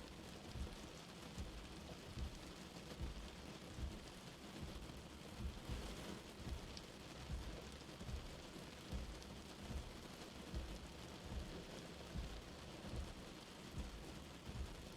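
Light rain falling steadily in an even hiss. Under it, a soft low pulse recurs a little more than once a second.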